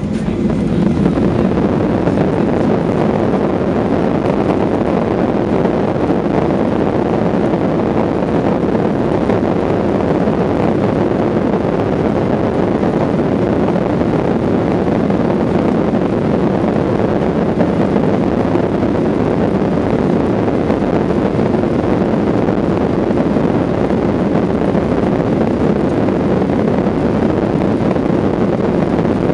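Jet airliner engines at takeoff power heard from inside the passenger cabin, a Ryanair Boeing 737-800: the noise rises sharply about a second in as thrust is set, then holds as a loud, steady rush of engine and air noise through the takeoff run.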